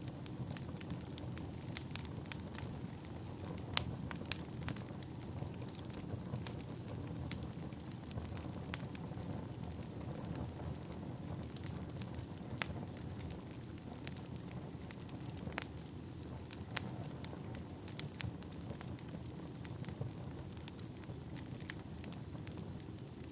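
Wood fire burning: a steady low rumble with scattered sharp crackles and pops of burning firewood.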